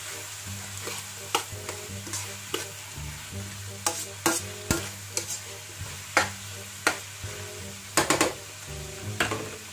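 Metal spatula scraping and clacking against a wok as shredded vegetables and egg are stir-fried, the food sizzling underneath. The scrapes and knocks come irregularly, with the loudest cluster about eight seconds in.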